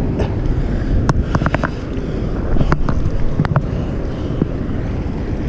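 Wind buffeting the microphone: a steady low rumble, with a few sharp clicks and taps about a second and a half in and again around three seconds in.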